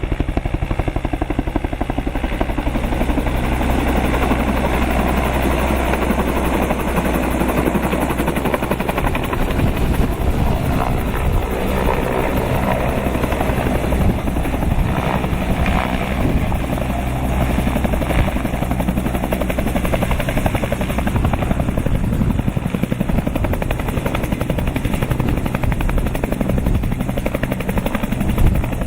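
Bell 222 twin-turbine helicopter close by, its main rotor chopping rapidly and steadily as it comes in to land, with the turbines' whine underneath.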